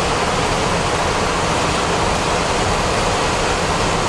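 Steady rushing flight-deck noise of a Boeing 737-400 in flight: airflow and engine noise heard inside the cockpit.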